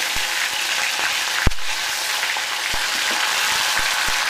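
Onion paste frying in hot oil in a kadai, sizzling steadily just after it went into the oil with the whole spices. A few sharp ticks stand out, the loudest about a second and a half in.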